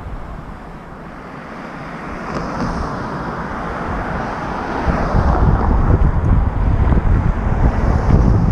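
Wind buffeting the microphone of a camera carried on a moving bicycle, a steady rush with no tones. The low rumble eases about a second in and comes back strongly about five seconds in.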